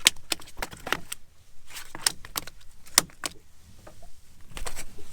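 A run of irregular sharp clicks and clinks, about a dozen in five seconds, some with a brief metallic ring, like small hard gear being handled and knocked together.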